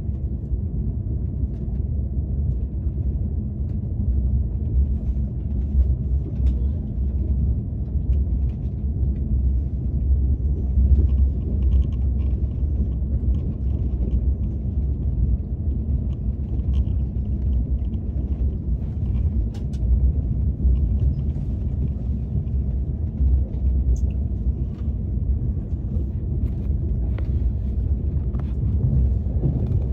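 Steady low rumble of a KTX high-speed train heard from inside the passenger cabin, with scattered faint small clicks and taps over it.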